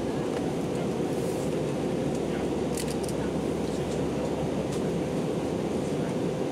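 Steady cabin noise of an Airbus A319-131 airliner in flight: an even, unbroken roar of engines and airflow, with a few faint ticks.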